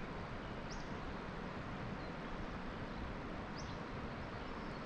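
Steady outdoor background hiss with two short, rising bird chirps, one under a second in and one about three and a half seconds in.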